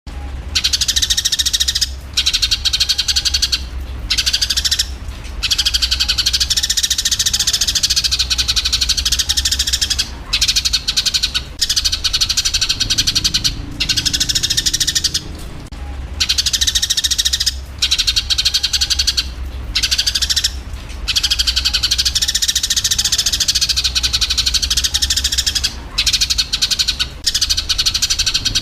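Eurasian tree sparrows chattering in a dense, continuous stream of rapid chirps, the agitated calls of sparrows fighting, broken by short pauses every few seconds. A steady low hum runs underneath.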